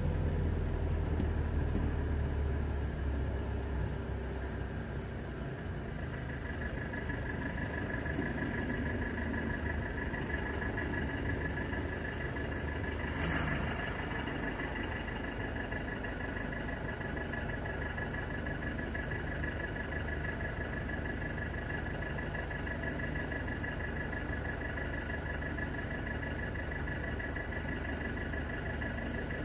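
Car engine and traffic noise heard from inside the car, a low rumble strongest in the first few seconds while a city bus runs close alongside, then settling to idling. A steady high tone comes in about six seconds in, and a brief knock sounds about halfway through.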